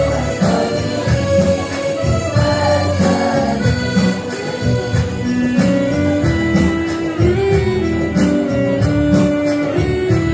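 Women's choir singing a devotional song in unison to instrumental accompaniment with a steady percussive beat.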